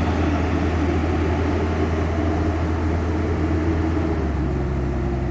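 Excavator's diesel engine running steadily, with a low hum; about four seconds in, its note shifts and settles into a different steady pitch.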